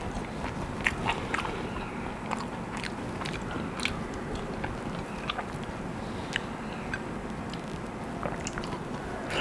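A person chewing and eating close to the microphone, with many small mouth clicks scattered through; the food is butter chicken curry eaten by hand with flatbread.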